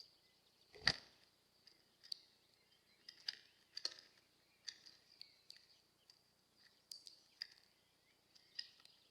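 A hawfinch at a Bird Buddy feeder pecking and working seeds, giving irregular sharp clicks and taps. There is one loud knock about a second in.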